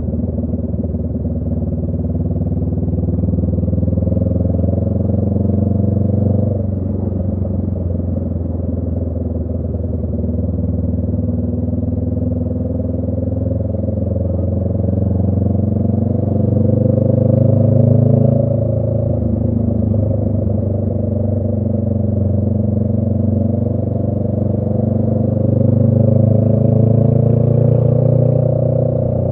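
Honda Rebel 500's parallel-twin engine through a Radiant Cycles Shorty GP aftermarket exhaust, heard while riding. The engine note climbs with the throttle and drops back sharply about six seconds in and again near the end.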